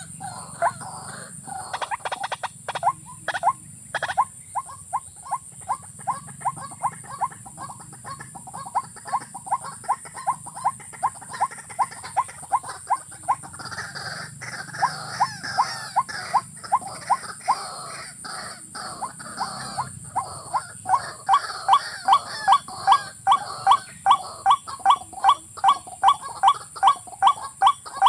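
A rail's call: a short clucking note repeated evenly, about three times a second in a long series, growing louder about two-thirds of the way in. This is the kind of call used to lure watercocks to a trap.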